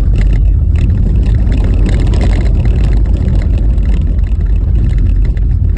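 Car driving over a rough, snowy road: a loud, steady low rumble of tyres and body, with many small knocks and rattles from the bumpy surface.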